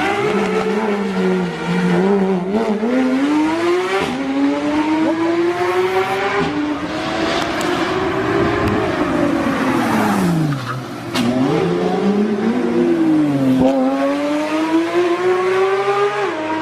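A high-performance car engine revving hard, its pitch sweeping up and down several times as the throttle is worked, with a hiss of tyre noise over it, as in drifting or doing donuts.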